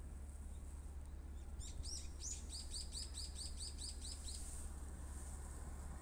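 A small songbird singing a rapid run of about a dozen short, high, down-slurred notes, starting about a second and a half in and stopping after about three seconds.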